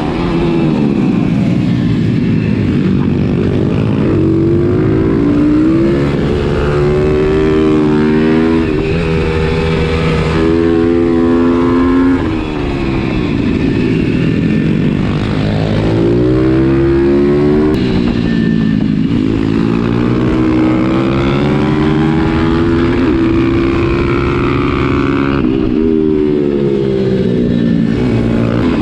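Bucci supermoto pit bike engine racing around a tight track, the revs repeatedly climbing as it accelerates and falling back going into corners.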